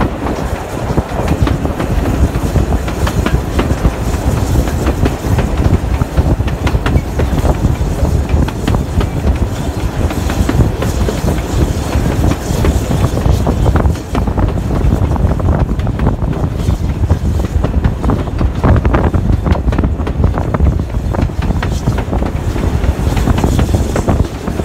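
Heritage steam railway carriage running along the track, heard from inside the train: a steady rumble with irregular clicks of the wheels over rail joints.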